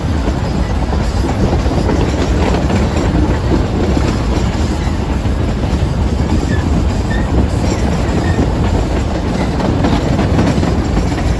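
Steam-hauled passenger train running along the line, heard from an open carriage window: a steady rumble of wheels on the rails.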